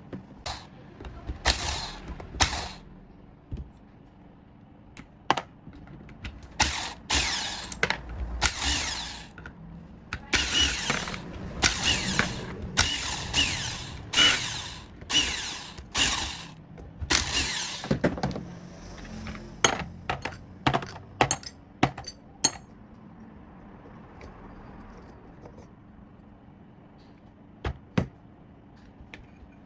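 Hand-tool work on a restored generator's parts: a run of rasping strokes about one a second, then a quick series of sharp clicks and knocks, then mostly quiet with two more clicks near the end.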